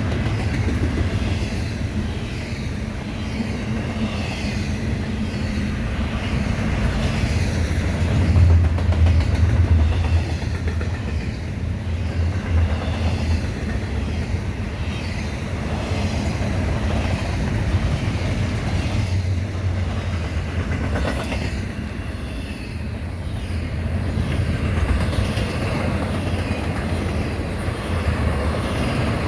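BNSF intermodal freight cars rolling past: a steady rumble of steel wheels on rail, with repeated clicks as the wheels cross rail joints.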